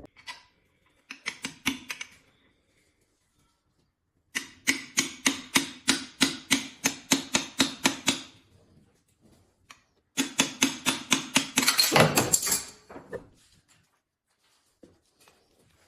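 Ratchet wrench clicking in three runs of quick, even clicks, about four or five a second, with a brief scrape about twelve seconds in, as bolts are worked loose on the bottom of the engine.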